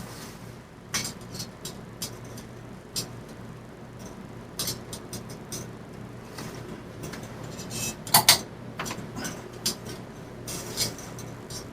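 Hampton Bay Cameron II ceiling fan running with a steady low motor hum, over which come irregular light clicks and clinks, a sharper pair about eight seconds in.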